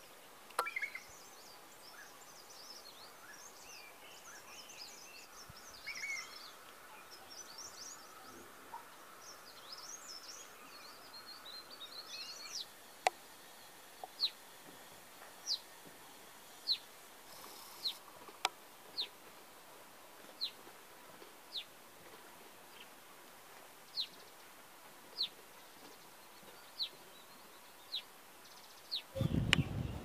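Small birds chirping and twittering in high quick notes for the first dozen seconds. Then one bird repeats a single short, sharp, falling call note about once every second. A louder rustling or handling noise starts just before the end.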